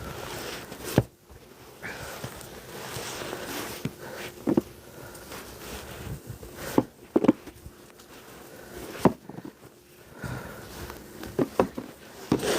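Snow shovel scraping through snow, with several sharp knocks of the blade at irregular intervals a second or more apart.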